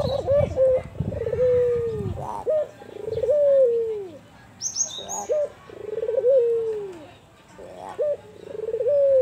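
Albino puter (ringneck dove) cooing in its deep kuwor style: four repeated coo phrases, each a couple of quick short notes followed by a long drawn-out falling note.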